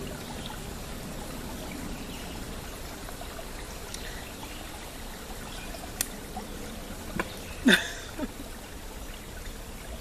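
Creek water trickling and flowing steadily. A sharp click comes about six seconds in, and a brief louder sound falling in pitch a little before eight seconds.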